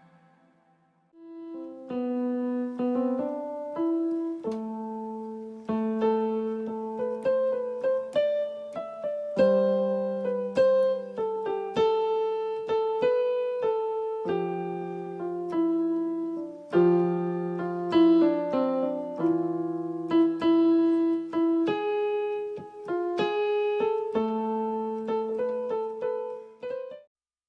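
Solo piano-sounding keyboard part playing a melody over held chords and a bass line. It starts about a second in and stops just before the end.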